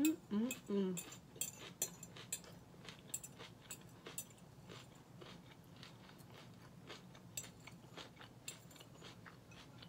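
Close-up chewing of Caesar salad with lettuce, with many small sharp clicks and scrapes of a metal fork against a glass bowl, densest in the first few seconds. A short hummed sound near the start.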